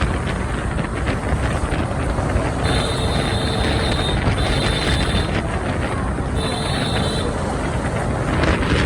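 Wind buffeting the microphone over the steady rumble of a motorbike and surrounding street traffic while riding. A horn beeps three times in the middle, in one long and two shorter beeps.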